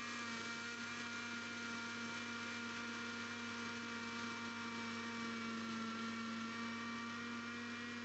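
A steady hum with several held tones over a faint hiss, unchanging throughout.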